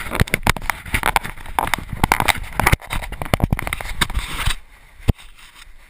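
Knocking, rattling and rustling handling noise from a GoPro worn by a dog as it moves, with many sharp knocks. It drops off sharply about four and a half seconds in, with one more knock a little later.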